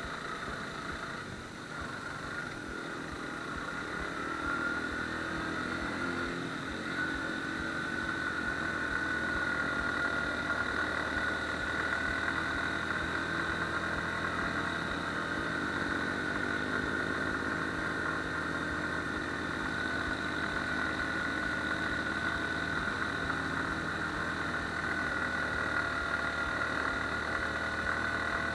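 Suzuki Gixxer motorcycle engine running continuously, its pitch drifting gently up and down, with a steady high whine above it.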